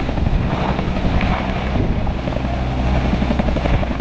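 Helicopter sound: a steady rotor and engine noise that begins and ends abruptly, like a sound effect.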